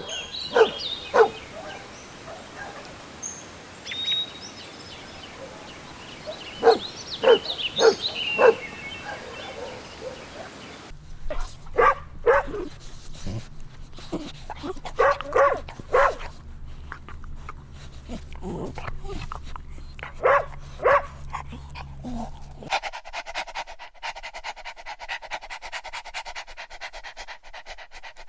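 Puppies barking: short, sharp barks, singly and in quick runs of three or four. Near the end the barking gives way to a fast, even rasping.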